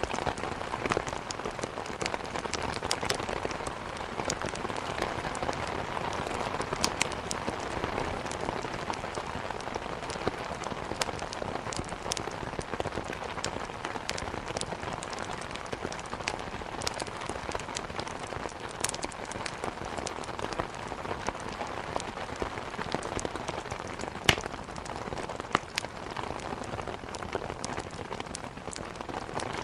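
Steady downpour of rain against a window, with scattered sharp crackles and pops from a wood fire throughout; one pop about 24 seconds in is louder than the rest.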